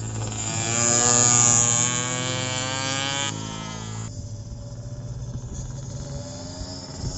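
Racing motorcycle passing close by at speed, loudest about a second in, its engine note dropping in pitch as it goes past. After about three seconds it fades to a quieter engine sound, over a steady low engine hum.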